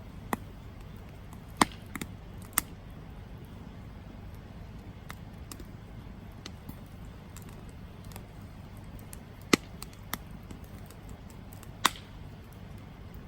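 Wood campfire crackling: a steady low rumble of the flames with sharp, irregular pops from the burning wood, several of them loud and clearly separate.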